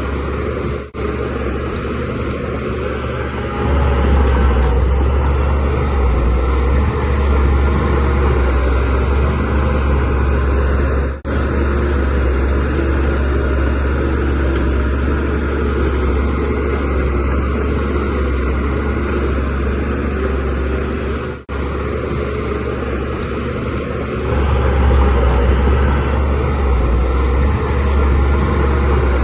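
Shantui DH17C3Pro bulldozer's diesel engine running steadily with a deep hum, growing louder under load about four seconds in and again near the end. The sound drops out briefly three times, about ten seconds apart.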